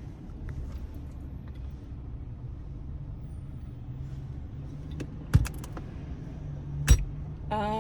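Steady low hum of a car's cabin on the move, with two sharp knocks about five and seven seconds in.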